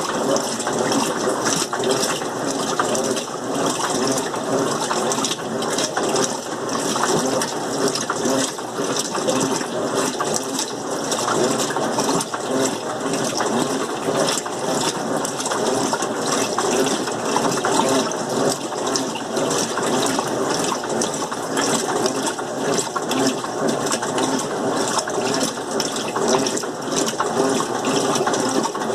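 Electrolux LM08 washing machine running its rinse cycle: a steady rush of water in the drum together with the machine's mechanical running and small irregular clicks.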